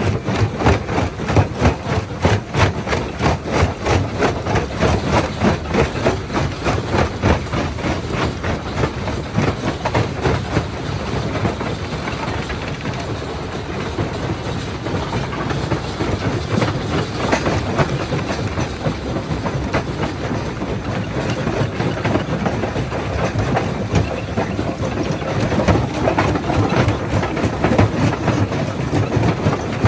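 Quarry primary jaw crusher working: rock grinding and cracking between the jaws over a heavy running drive, with a rapid, regular knocking that eases slightly in the middle.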